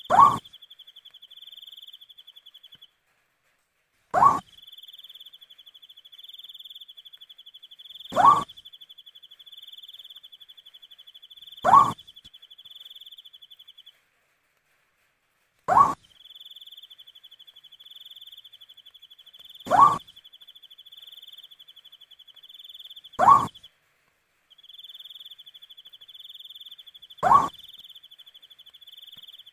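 An owl giving a short single hoot about every four seconds, eight times, over a steady pulsing trill of crickets that drops out briefly now and then.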